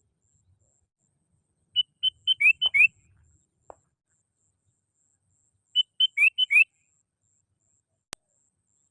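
Sooty-headed bulbul (kutilang) singing its lively call song in two short phrases about four seconds apart. Each phrase is a quick run of about six clear whistled notes: a few level notes, then downward-slurred ones. A single sharp click sounds near the end.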